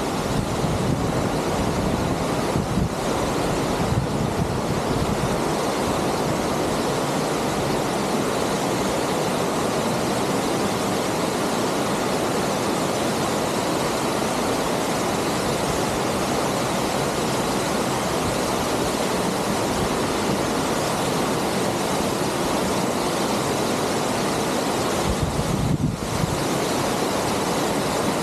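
Waterfall: a loud, steady rush of falling water from Upper Duden Falls close by.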